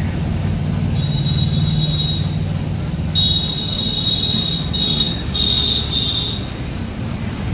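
Passenger train running with a steady low rumble, its wheels squealing high on the rails: a short squeal about a second in, then a longer one from about three seconds that breaks up and stops near six seconds.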